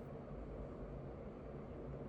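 Steady low hum with a faint even hiss: background room noise with nothing else happening.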